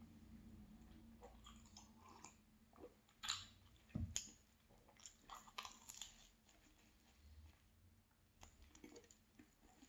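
A person quietly chewing and biting a flaky pastry, with scattered short crunches and crackles, the loudest a few seconds in.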